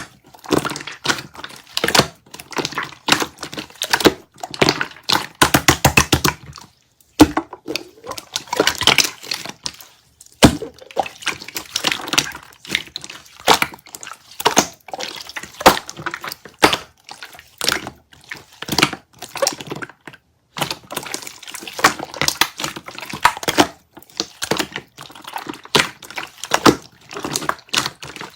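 Kiwi water jelly crunched and squished close to the microphone: a dense run of wet crackles and sharp clicks, broken by short pauses, with a quick even patter of clicks around six seconds in.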